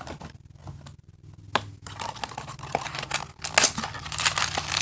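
Toy packaging being handled: rustling with scattered small clicks and taps, growing busier and louder in the last second or so.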